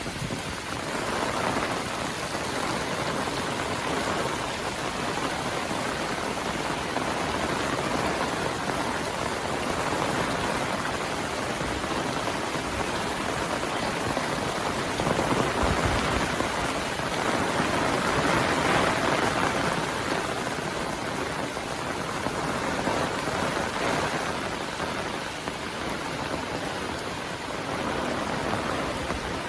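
Heavy monsoon rain falling steadily, a dense hiss of drops on surfaces that grows a little louder around the middle.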